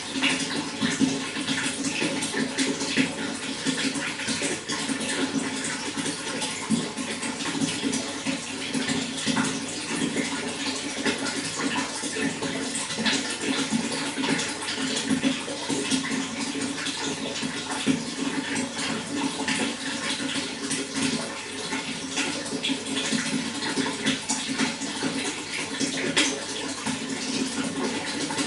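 Running water flowing steadily, a constant rush dotted with many small splashes and trickles.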